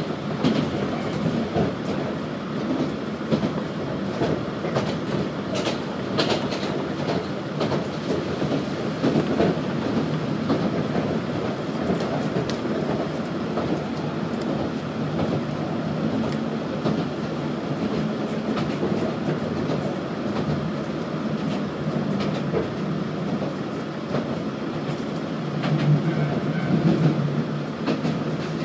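Nagara Railway diesel railcar running, heard from inside the passenger cabin: a steady running drone with wheels clicking over rail joints now and then. The sound swells louder for a couple of seconds near the end.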